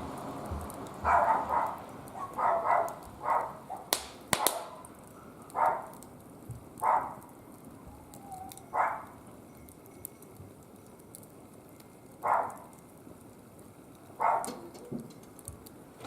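Wood fire burning in a barbecue grill, with two sharp pops about four seconds in. Over it comes a string of about ten short, loud calls, some in quick pairs.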